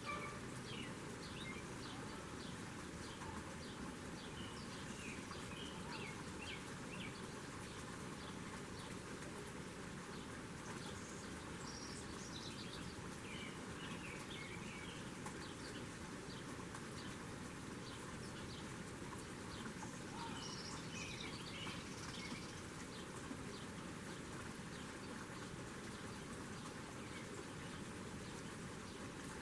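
Small birds chirping in short, faint calls, in scattered clusters over a steady background hiss.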